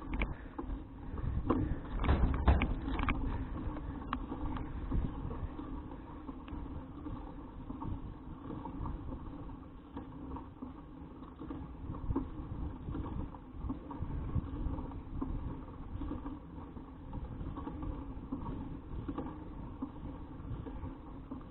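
Steady riding noise of a folding bicycle carrying an action camera: rumble from the tyres and frame rattle, with wind on the microphone. A cluster of knocks and rattles comes in the first three seconds.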